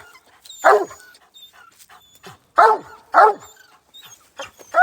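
Coonhound barking treed: short, loud barks, one about a second in, then two close together, and another at the very end. It is the hound's bark at a tree, signalling that it has a raccoon treed.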